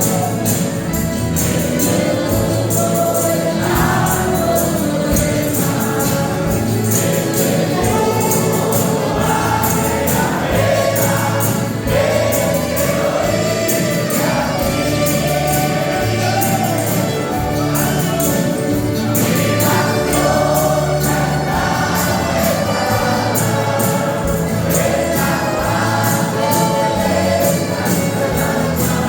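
A men's church group singing a gospel worship song together over instrumental backing with a steady bass line.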